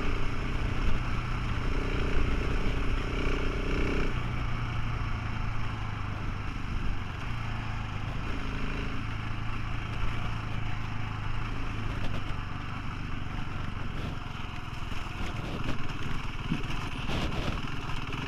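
Motorcycle engine running steadily while riding, over a steady rushing noise; the engine note changes about four seconds in.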